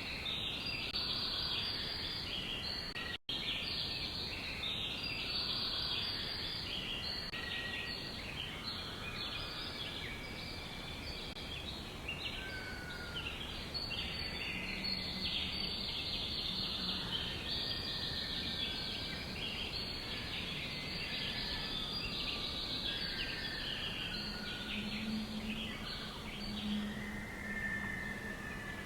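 A dense chorus of many birds chirping, with overlapping rapid chirps, some separate lower calls, and a momentary break about three seconds in.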